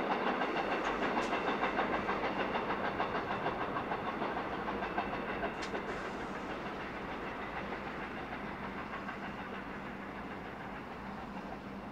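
Freight train wagons rolling away, the wheels clacking in a steady rhythm of about two to three beats a second that fades and blurs into a rumble as the train recedes.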